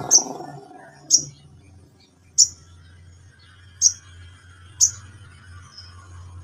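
Crimson sunbird giving five short, sharp, high-pitched chip calls, spaced about a second or so apart, over a faint low hum.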